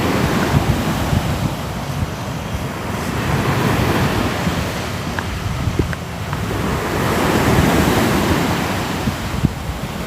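Ocean surf: waves washing in continuously, swelling and easing in slow surges every few seconds, with a few faint small clicks.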